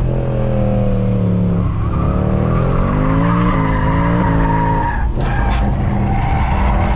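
Mercedes C63 AMG's 6.2-litre V8, with its secondary cats and resonators deleted, revving up and dropping back several times under hard driving while the tyres squeal as the car slides. Two short sharp cracks come about five seconds in.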